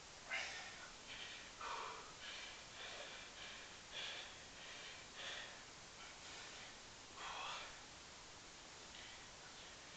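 A man breathing hard from exertion during a long set of one-leg squats, in short irregular puffs of breath.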